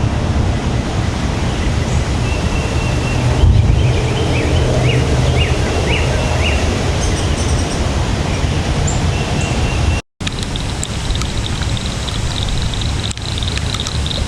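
Outdoor ambience of wind rumbling on the microphone, with short bird chirps in the first half. The sound cuts out for an instant about ten seconds in, and after that a steady high insect buzz comes in.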